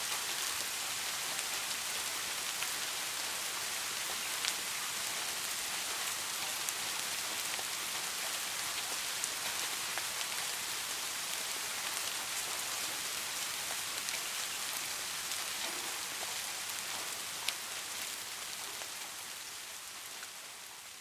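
Steady rain falling: a dense hiss with a few sharp, distinct drop ticks, which begins to fade down over the last few seconds.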